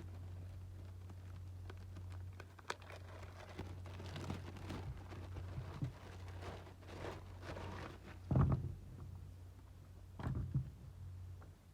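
Box and packaging being handled while unboxing a pair of Crocs clogs: scattered rustles and light taps, with two louder knocks about eight and ten seconds in, over a steady low hum.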